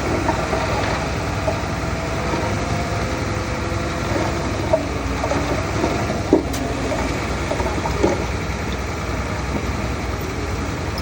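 Heavy diesel construction machinery engine running steadily, with a few sharp knocks about halfway through, the loudest a little past the middle.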